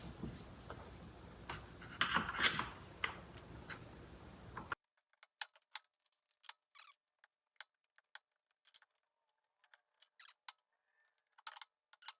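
Faint, scattered clicks and taps of a small screwdriver prying a wiring connector out of its plastic retainer in a steering wheel, with a cluster of louder clicks about two seconds in.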